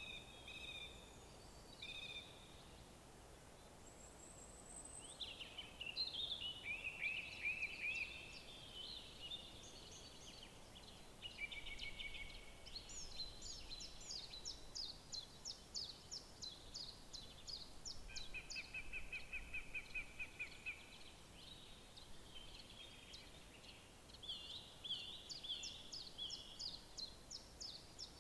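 Several songbirds singing, with fast trills, runs of quickly repeated high notes and short whistles, some overlapping, over a faint steady hiss.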